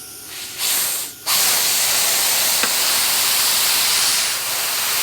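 Loud, steady hiss of compressed air blowing, in a short burst and then a long continuous blast from about a second in.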